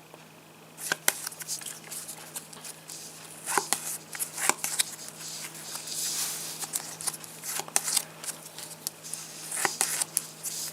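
Match Attax trading cards being handled and flicked through: light rustling with a few sharp card snaps at irregular moments.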